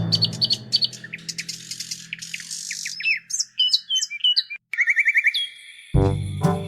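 Birds chirping and whistling in quick short calls, some sliding up or down in pitch, over the tail of a song fading out; loud music comes back in near the end.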